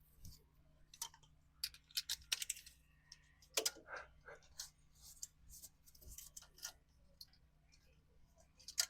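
Plastic zip ties being pulled tight around a loose engine-bay line: faint, irregular ratcheting clicks in short runs.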